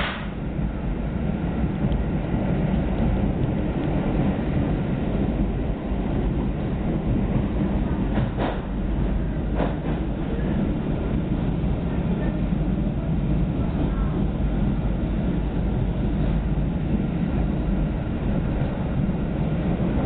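Passenger train running at speed, heard from inside the carriage: a steady rumble of wheels on track, with a few short clicks, one at the start and two close together about halfway through.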